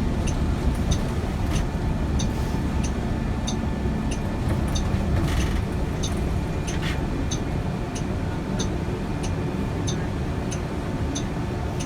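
Steady low rumble of traffic or a running vehicle, with a regular high ticking about twice a second running through it.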